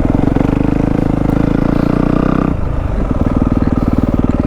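Yamaha WR250F single-cylinder four-stroke engine running through a YZ slip-on exhaust, held at raised revs. About two-thirds of the way in the revs fall and it settles into a slower, lumpy low-rpm beat.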